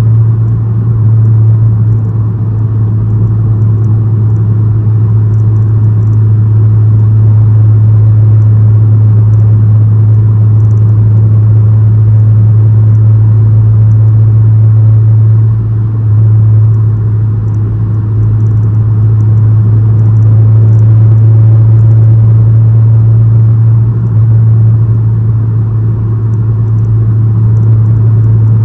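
Honda Civic Si's 2.4-litre four-cylinder with an aftermarket downpipe and exhaust, running at a steady engine speed with a loud, even low drone. The drone eases briefly a few times without changing pitch.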